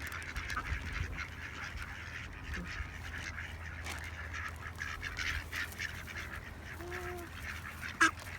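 A flock of ducks calling continuously, many short overlapping calls from birds crowding in for bread, with one longer arching call about seven seconds in. A single sharp click near the end is the loudest sound.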